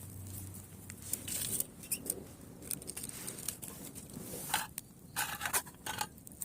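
Dry twigs of a small campfire crackling and snapping: irregular sharp clicks, with a cluster of louder crackles about four and a half to six seconds in.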